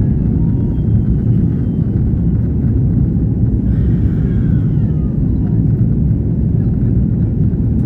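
Airbus A330 jet airliner during take-off, a loud, steady low rumble of engines and airflow.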